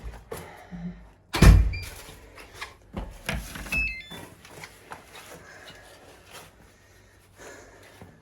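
A series of knocks and thumps, the loudest about one and a half seconds in and a cluster around three to four seconds, over a low steady hum.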